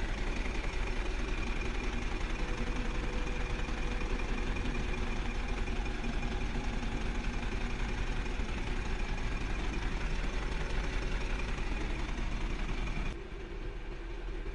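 Vehicle engine running steadily with a deep rumble, dropping off sharply about a second before the end.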